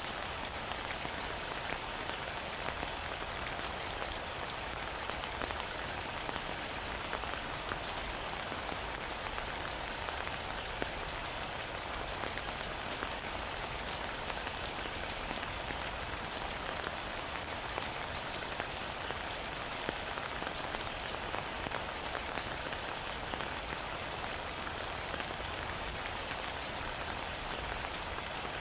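Heavy rain falling steadily, a dense even hiss full of small drop patters.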